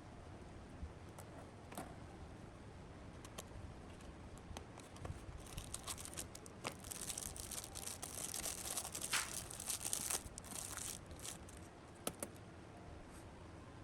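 Light handling noises: scattered small clicks and taps, with a few seconds of scratchy rustling or scraping in the middle.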